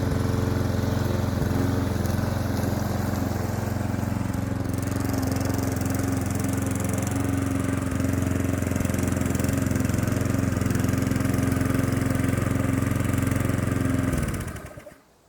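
Klippo petrol lawn mower engine running steadily, then shut off about a second before the end, its pitch sinking as it winds down to quiet.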